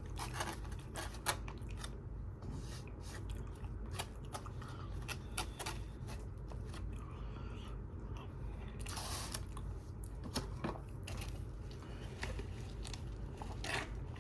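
A person chewing and biting food close to the microphone, a fried chicken and mashed potato dinner: a run of irregular short mouth clicks and bites.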